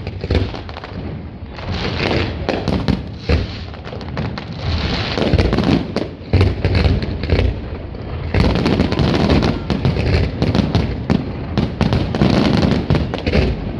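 Fireworks display: rapid volleys of aerial shells bursting, with many sharp cracks and deep booms over a continuous rumble. The bursts come thickest in the second half.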